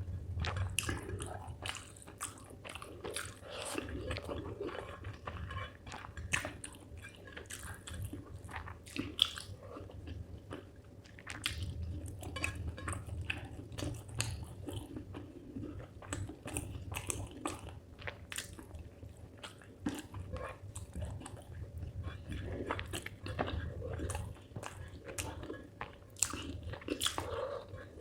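Close-up chewing and biting sounds of a person eating spicy chicken liver with rice, with many small irregular mouth clicks throughout.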